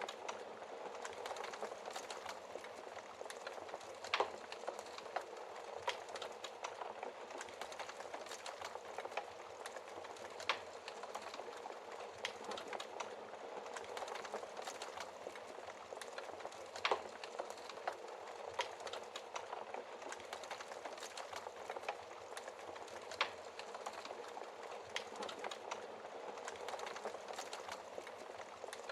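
Wood fire burning in a fireplace: a steady crackle of small snaps, with a few sharper pops of burning wood every several seconds.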